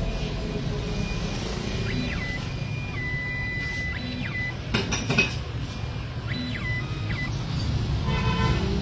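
Steady street traffic rumble, with short high tones that rise and fall and a cluster of sharp clicks about five seconds in, and a vehicle horn sounding near the end.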